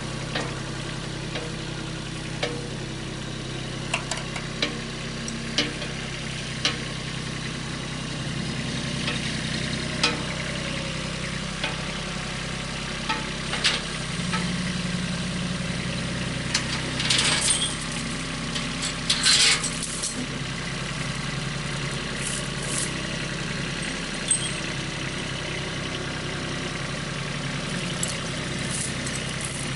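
An engine idling steadily, with scattered sharp knocks and clatters over it and two short scraping bursts around the middle.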